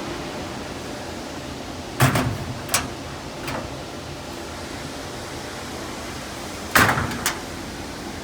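Steady machinery noise with two clusters of sharp knocks, each a loud knock followed by one or two lighter ones, about two seconds in and again near the end.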